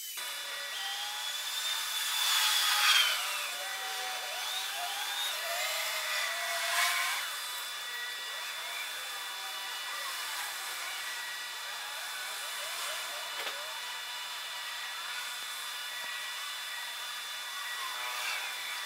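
Outdoor sound played back at many times normal speed: a high whirring hiss with quick squeaky chirps and gliding squeals, busiest in the first seven seconds.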